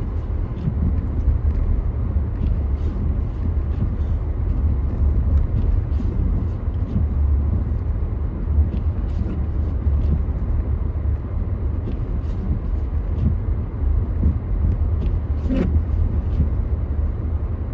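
Car driving on a snowy, icy road, heard from inside the cabin: a steady low road-and-engine drone with scattered small clicks, and a brief short sound about fifteen seconds in.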